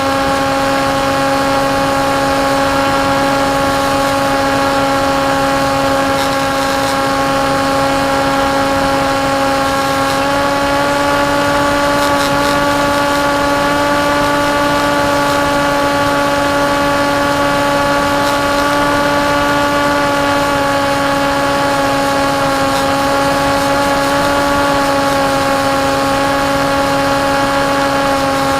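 Electric motor and propeller of a KT Wing flying wing in flight, heard from the onboard camera: a steady buzzing whine over a rough rush of wind. The pitch steps up slightly about ten seconds in and eases back near the end.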